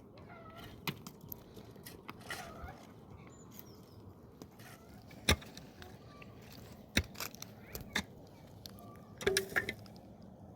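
Chickens clucking now and then, over scattered sharp knocks, the loudest about five seconds in, with a quick cluster of knocks near the end.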